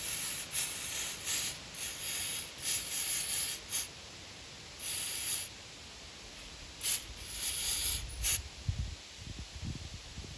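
Pressurised spray hissing in repeated short bursts into the passages of a Toro Recycler lawn mower carburetor, blowing out gunk and loose debris. A few faint low thumps of handling follow near the end.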